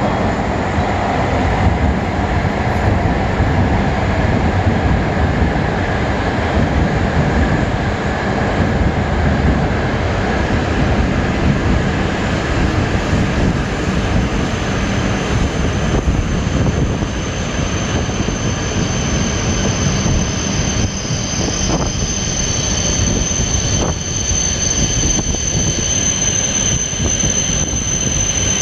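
Tohoku Shinkansen train passing through the station without stopping, a loud steady rushing noise. A high steady whine comes in about two-thirds of the way through and grows louder toward the end.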